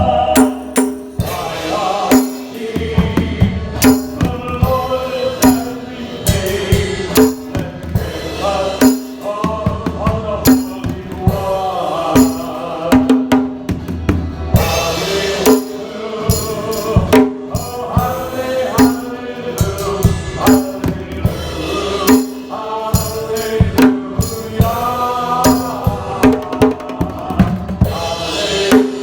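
A choir singing a hymn-like song over hand drums and percussion that keep a steady beat.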